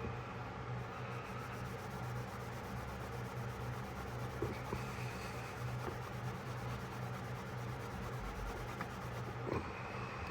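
Faint rubbing and handling noises from cleaning a pocketknife, with a few light clicks, over a steady low electrical hum.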